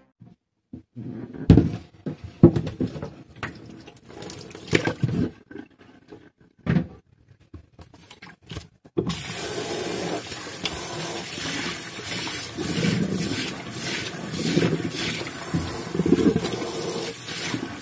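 A few scattered knocks and clatters, then about halfway through a tap is turned on and water runs steadily, as in rinsing at a sink.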